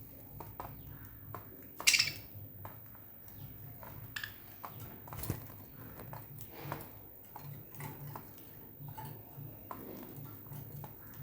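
Budgerigars clicking and tapping with their beaks and feet on hard surfaces in many small irregular ticks, with one loud, short, high chirp about two seconds in.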